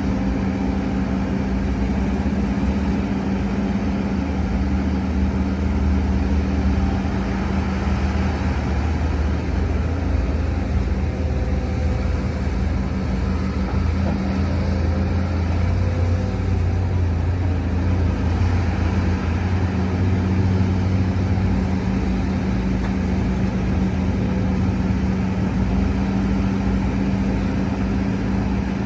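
Heavy diesel earthmoving machinery running steadily, with a second, deeper engine drone joining for a while and dropping away about two-thirds of the way through.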